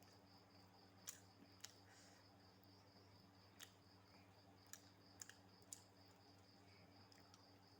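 Quiet eating: a few faint, sharp mouth clicks from chewing, scattered irregularly, over a low steady hum and a faint high-pitched pulsing tone.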